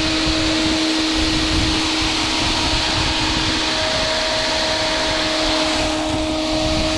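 A machine running steadily: a continuous whir with hiss and a steady hum. The lower hum stops about four seconds in, leaving a higher tone over the hiss.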